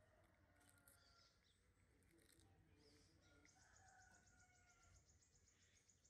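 Near silence with faint birds chirping, including a quick run of high, evenly spaced chirps starting about halfway through.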